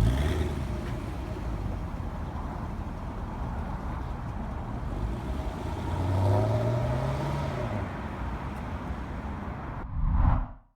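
2014 Chevy SS's 6.2-litre V8 running as the car pulls away, its pitch rising and then falling about six seconds in. A swoosh transition effect comes near the end.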